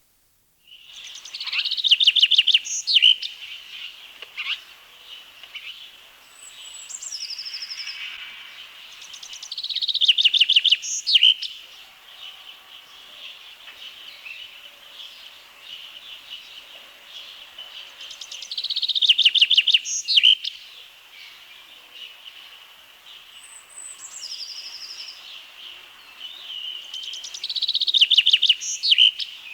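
Common chaffinch singing: four song phrases about nine seconds apart, each a rapid run of repeated notes ending in a flourish. Fainter calls of other birds sound between the phrases.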